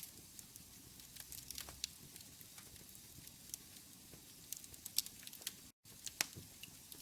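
Wood fire burning in a fireplace, crackling with irregular sharp pops over a soft hiss. The sound cuts out for an instant about six seconds in.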